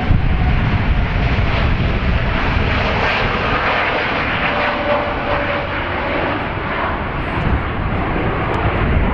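Jet airliner engines, a loud and steady rushing noise from an aircraft passing close by.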